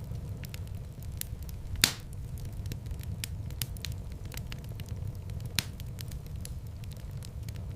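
Wood fire burning in a fireplace: a steady low rush of flames with frequent small crackles and two louder pops, the loudest about two seconds in and another a little past five seconds.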